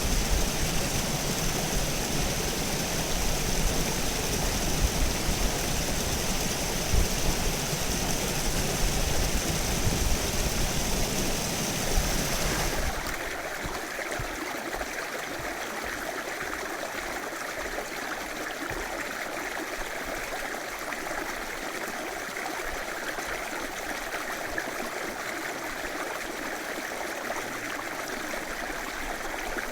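River water running over rocks with a steady rush. About thirteen seconds in, the sound changes abruptly: the deep rumble and high hiss drop away, leaving a quieter, more even rush.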